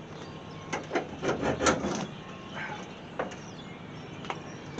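A run of sharp clicks and knocks about one to two seconds in, then single knocks near the middle and toward the end: something being handled.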